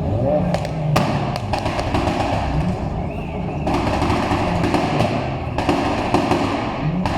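Car engine revving hard, its pitch rising and falling, with repeated sharp exhaust pops and bangs over a dense noise typical of a burnout.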